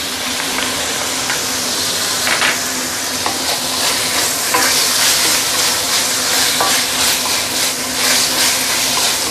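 Chicken pieces, ginger and garlic sizzling in hot oil in a stainless-steel wok while being stirred and tossed with a wooden spatula, which knocks against the pan now and then.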